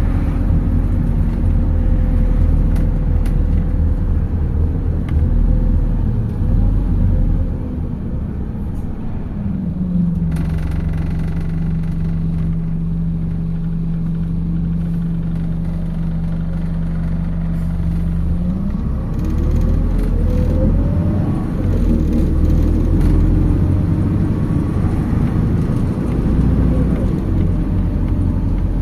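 Interior of a MAZ 206.067 city bus: engine and road rumble that eases about eight seconds in and settles to a steady hum of the idling engine for about eight seconds. The bus then pulls away with a rising whine as it accelerates.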